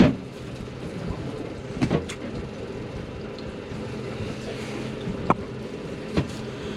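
A boat's motor running steadily with water sloshing, and a few sharp knocks on the boat, the loudest right at the start.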